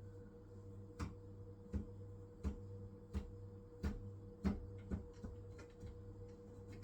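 Hisense washing machine running a wool cycle: a steady low hum with a held tone, and a run of sharp knocks about 0.7 s apart. They fade into lighter, quicker ticks near the end.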